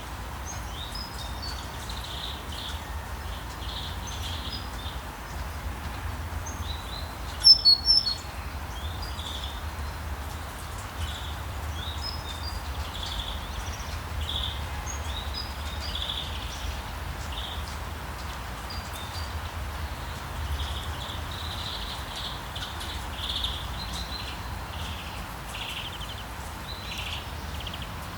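Birds chirping and calling over steady rain. A quick cluster of loud, high chirps comes about seven and a half seconds in.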